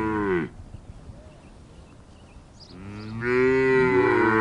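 Long, drawn-out lowing calls of a large hoofed animal. One call fades out about half a second in. A second, louder call begins about three seconds in, and near the end another voice overlaps it.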